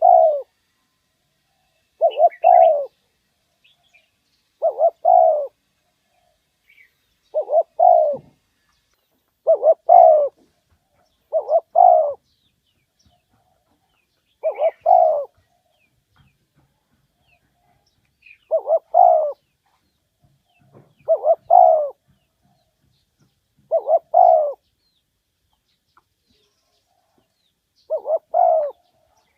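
Spotted dove giving its calling coo: a short phrase of one or two quick notes and a longer note, repeated about eleven times, every two to four seconds.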